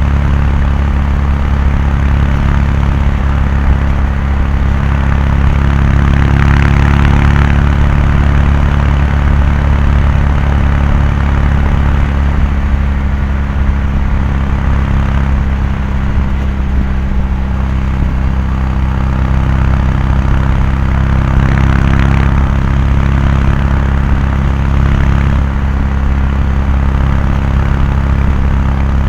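Kawasaki Meguro K3's air-cooled parallel-twin exhaust at a steady highway cruise, the engine note holding one even pitch throughout. Twice a brief rush of noise swells over it.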